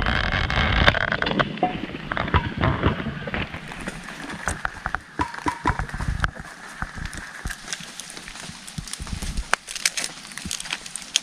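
Leaves rustling and crackling as they are folded by hand into a wrap around a minced catfish mixture, with many irregular sharp crackles.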